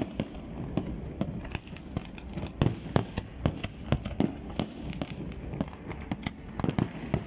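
Aerial fireworks going off in a rapid, irregular string of bangs and pops, several a second.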